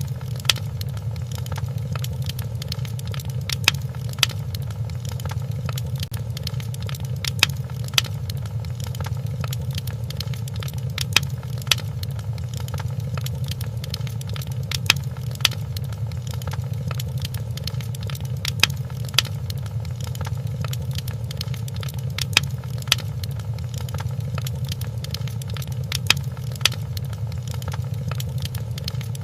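Wood fire crackling in a fireplace: a steady low rumble of the burning fire with sharp pops, coming in pairs about half a second apart that recur every few seconds at an even spacing.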